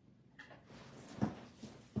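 Handling of trading-card packs on a table: a brief rustle about half a second in, then two soft knocks, one a little after a second in and one near the end.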